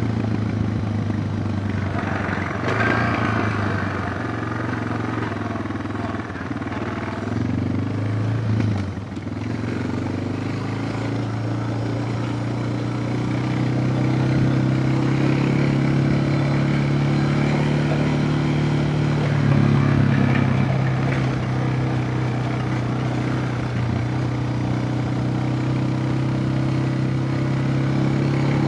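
Suzuki DR650's single-cylinder four-stroke engine running while riding. The engine note dips about eight seconds in, then rises slowly over a few seconds and holds steady.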